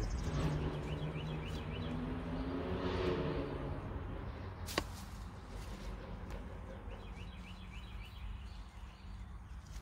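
Birds chirping in short repeated phrases, along with a low hum that fades out over the first four seconds and one sharp click about five seconds in.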